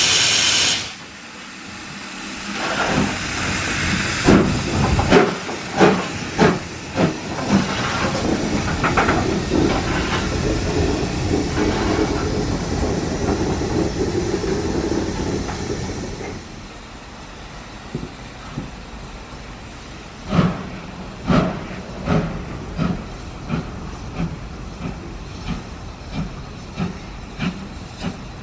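Ivatt Class 2MT steam tank locomotive 41241 getting a train under way. A loud steam hiss cuts off within the first second, then sharp exhaust beats start and quicken over a steady hiss. After about sixteen seconds it turns quieter, with a regular soft beat going on.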